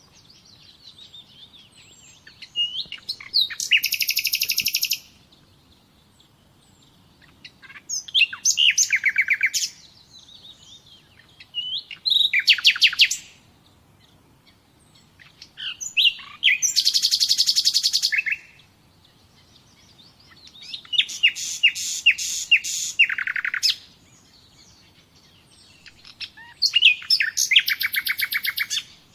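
Songbird singing: six separate high-pitched phrases of rapid trilled notes, each lasting one to three seconds, come every four seconds or so, with faint chirps in the gaps between them.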